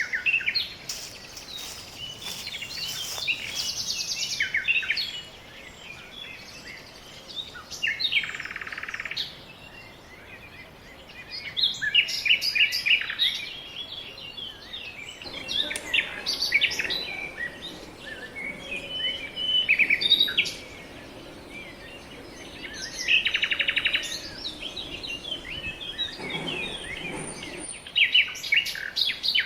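Several songbirds singing and chirping together, with short high chirps throughout and a few fast trills, about a second long each, near the start, around 9 seconds in and around 23 seconds in.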